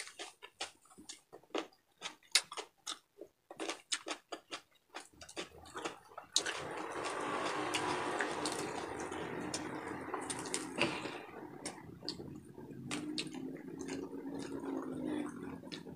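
Close-up crunching and smacking of someone chewing crispy deep-fried pork bagnet, a fast run of sharp crackles. About six seconds in a steady hiss takes over as the crispy pork is pulled apart by hand.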